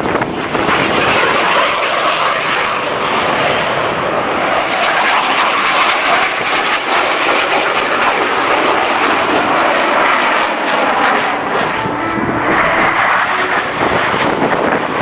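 Fixed-wing airplane engine running loud and steady as the plane passes, heard as a continuous rushing noise.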